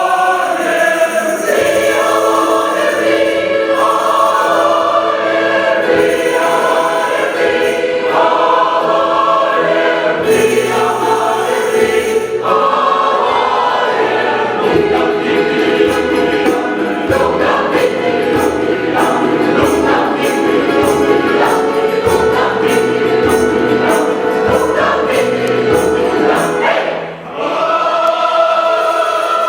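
Large choir singing in harmony with instrumental accompaniment. About halfway through, a steady percussive beat comes in under the voices. Near the end there is a short break, and then the full choir comes back in.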